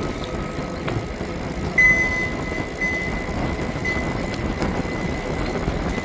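Riding noise from a moving bicycle: a steady rumble of wind and tyres, with a steady high-pitched tone coming in about two seconds in and holding, with short breaks, to the end.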